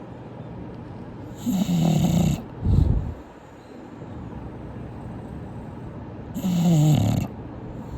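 English bulldog snoring in its sleep: two snores, each about a second long and some five seconds apart, the first followed by a short low snort.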